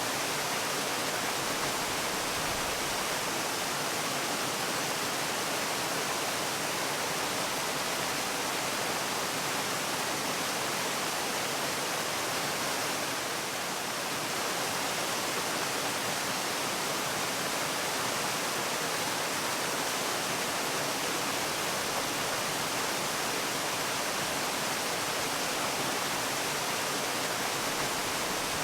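Waterfall: a steady rush of falling water, an even hiss with most of its weight in the upper range and little low rumble, dipping slightly for a moment near the middle.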